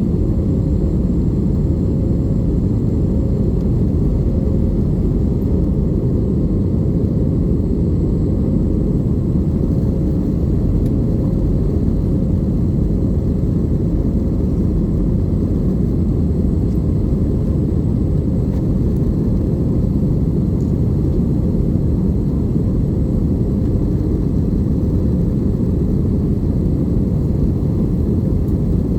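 Steady, loud rumble of an Airbus A320 in flight as heard from the passenger cabin: engine and airflow noise, with a faint steady hum over it and no change throughout.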